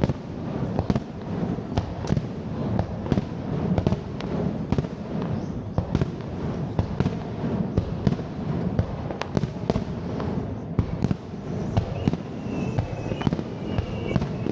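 Fireworks display: a rapid, continuous barrage of shell bursts, sharp bangs several times a second over a steady rumble and crackle.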